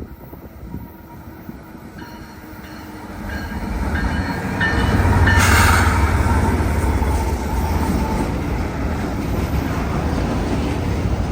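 A train approaching and passing close by: its noise builds from about three seconds in, peaks as the locomotive goes past around the middle, then carries on as a steady loud rumble of the cars rolling on the rails.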